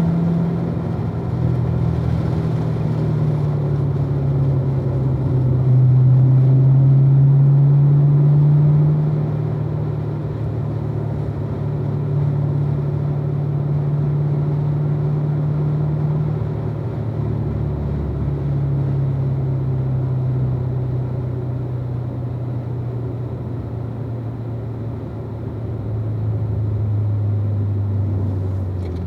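Supercharged LT4 V8 of a 2016 Corvette Z06 running at low, fairly steady revs, its pitch drifting gently up and down with no hard acceleration.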